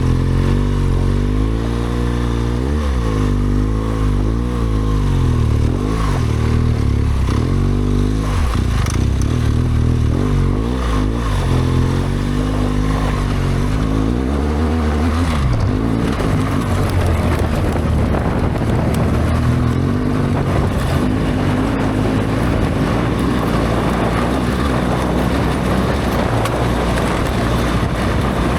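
BMW R1200GS Adventure's boxer-twin engine running under changing throttle, its note rising and falling again and again over the first half. About halfway the note holds steadier beneath a rushing noise.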